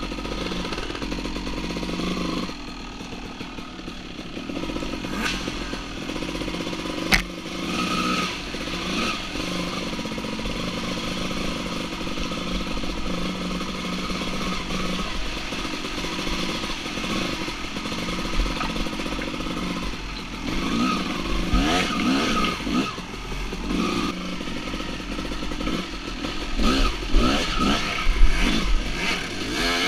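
Two-stroke dirt bike engine running and revving, with the throttle opened and closed in quick rises and falls in the last third. A sharp knock comes about seven seconds in.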